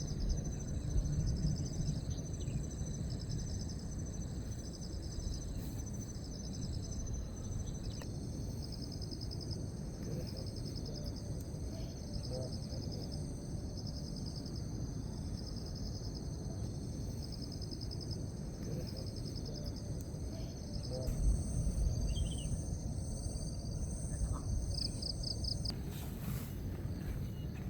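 Crickets and other insects chirping in repeating pulsed trains over a steady high-pitched insect drone, against a constant low background noise. A louder low rush swells about three-quarters of the way through.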